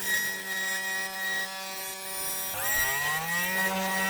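A small power tool's motor running steadily as it cuts into the plastic housing of a refrigerator water filter; about two and a half seconds in its pitch drops sharply as it bogs under load, then climbs back up over the next second.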